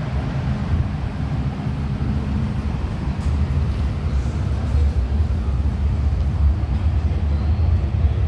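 MTR M-Train electric multiple unit running along the track: a steady low rumble, with a faint hum that fades out about two and a half seconds in.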